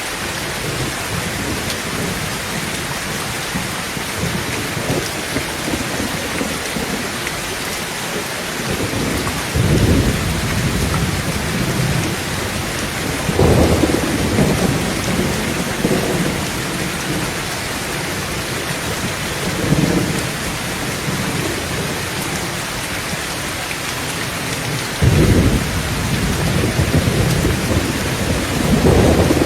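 Heavy rain falling steadily on a tin tent roof, with thunder rolling in five times: about a third of the way in, near the middle, twice more later and again at the end.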